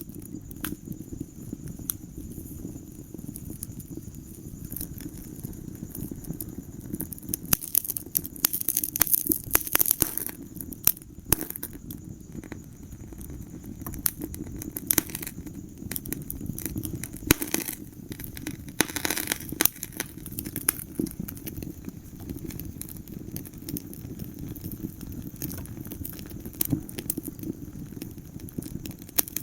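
Wood fire burning in a fireplace: frequent sharp pops and snaps over a steady low rush of the flames, with busier spells of crackling now and then.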